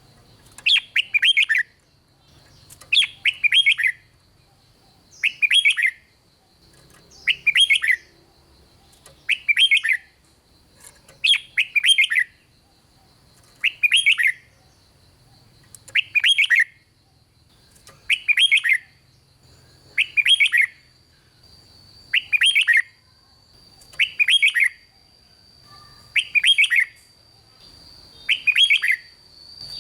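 Red-whiskered bulbul singing one short, quick warbled phrase over and over, about once every two seconds, with a faint steady high whine underneath.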